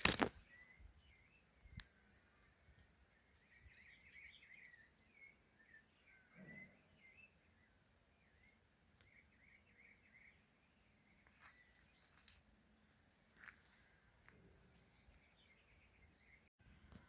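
Faint outdoor ambience: a steady, finely pulsing insect trill with scattered bird chirps over it, and a few faint clicks.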